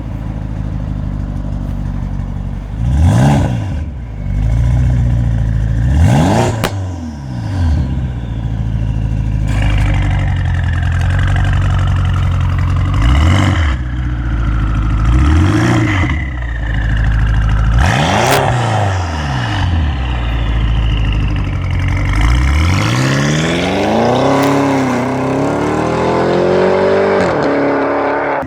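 BMW car exhaust with the M drive mode engaged, the engine revved in five short blips that rise and fall back to idle. From about three-quarters of the way through it climbs in a longer run of rising revs that dips a couple of times.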